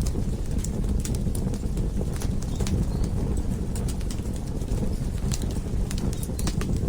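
Wood fire crackling in a fireplace: a steady low rumble of burning with irregular sharp pops and snaps, several a second.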